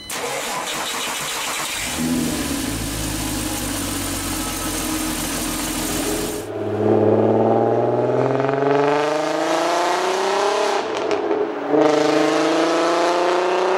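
Volkswagen Golf R32's 3.2-litre VR6 engine running under the hood with a steady hiss. It then gives way to a VR6 car accelerating hard, its engine note rising steadily, with a brief drop about 11 seconds in, like a gear change, before climbing again.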